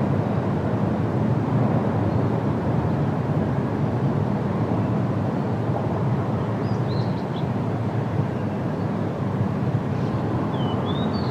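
Steady wind rushing through tree leaves, with a few faint, high bird chirps about seven seconds in and again near the end.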